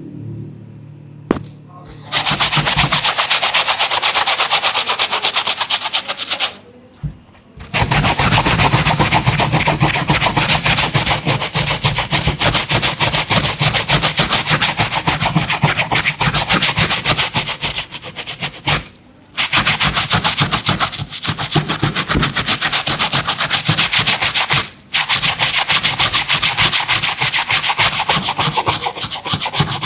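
Fast back-and-forth scrubbing on a sneaker, a dense scratchy rubbing of rapid strokes that starts about two seconds in and stops briefly three times.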